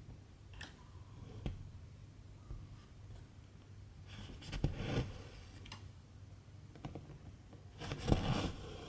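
Cross-stitch needle and silk thread worked through 11-count fabric: a few small clicks and ticks, then two rasping swishes about four and eight seconds in as the thread is drawn through.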